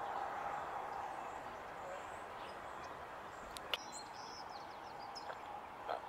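Steady outdoor background noise with a few faint, high bird chirps in the second half and one sharp click about three and a half seconds in.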